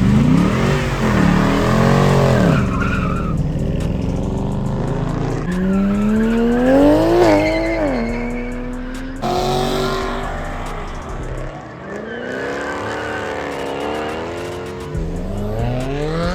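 High-powered V8 muscle cars revving hard and accelerating away, the engine note climbing and falling again several times, with a long rising rev peaking about halfway through. Tire squeal mixes in from burnouts.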